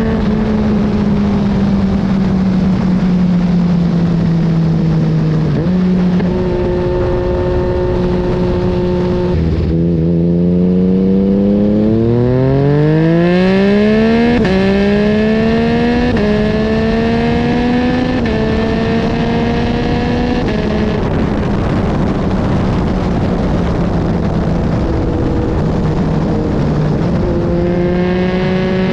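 2022 Yamaha MT-09's 890 cc inline-three engine through an Akrapovic full carbon exhaust, under way. It runs steadily and eases off at first, then pulls hard about ten seconds in with the pitch climbing steeply. Several quick upshifts follow, each dropping the pitch, before it settles into a steady cruise and picks up again near the end.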